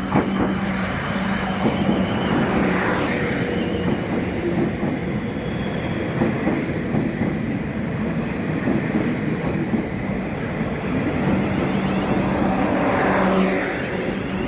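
A train running past close by: a steady rumble of wheels on the rails, with a low hum that comes and goes.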